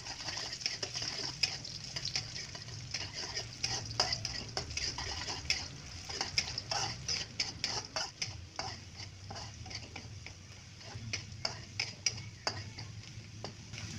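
Sliced shallots sizzling in hot oil in a metal wok, with a steady hiss, while a metal spatula stirs them, scraping and clicking against the pan many times.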